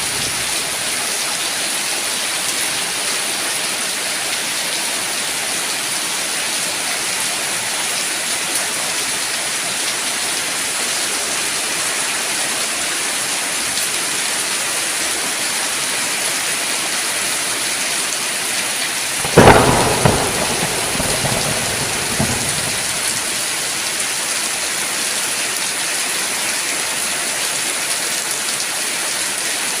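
Steady heavy rain with a sharp thunderclap about two-thirds of the way through, which rumbles away over a few seconds with a smaller second crack.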